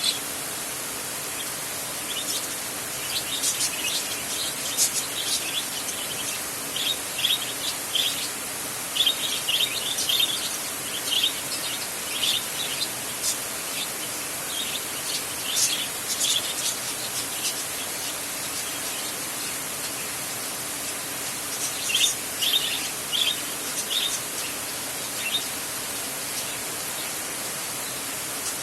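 Steady rain hiss with a bird calling over it in runs of quick, short, high chirps, busiest in the first half and again for a few seconds near the end.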